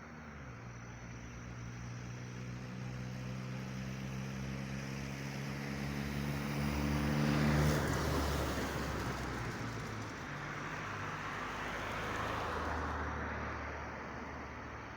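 A car driving past, its engine hum and tyre noise growing to a peak about halfway through and then fading, with a second, smaller swell later on.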